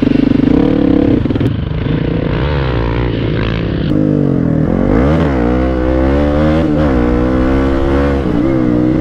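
Hero Xpulse 200's single-cylinder engine revving hard. Its pitch is held high for about the first second, drops, then rises and falls several times as the throttle is worked.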